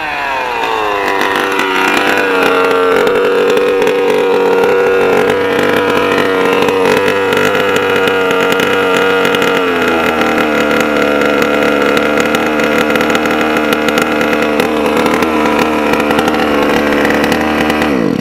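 Two-stroke gas engine of a 1/5-scale Losi 5ive-T RC truck running at high revs. Its pitch falls over the first couple of seconds, holds steady, steps lower about ten seconds in, and cuts off abruptly at the end.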